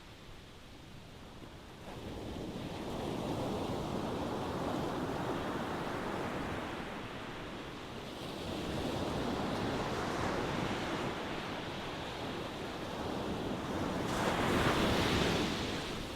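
Ocean waves breaking and washing in, coming in slow surges: quiet for the first couple of seconds, then swelling several times, with the loudest wave near the end.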